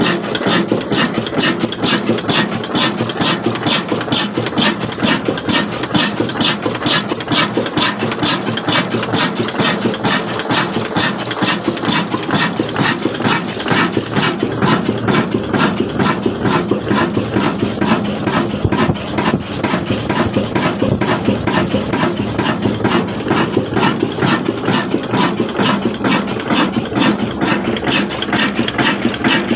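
Old black diesel engine running steadily, its exhaust beating in a fast, even rhythm.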